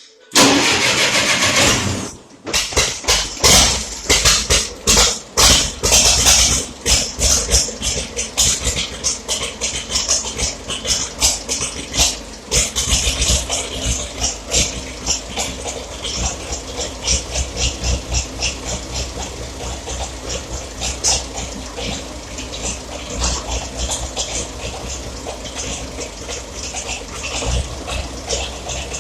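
Massey Ferguson Super 90 gasoline tractor engine being started: it cranks, catches about two seconds in, and runs unevenly, firing in irregular surges that settle into a steadier run later on. The rough running is the trouble the owner is showing, on an engine that has been hard to start.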